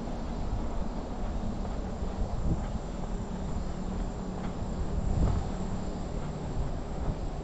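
Outdoor ambience of insects buzzing in a steady high drone over a constant low rumble.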